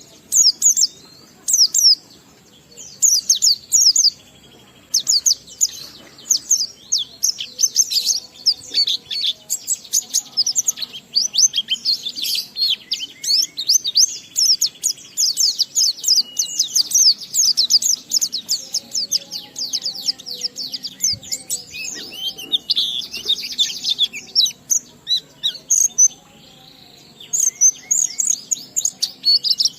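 A white-eye (pleci) singing a long, rapid run of high, quick down-slurred notes, the continuous 'ngalas' song of a bird in full song. There are a few short breaks in the first seconds and one near the end.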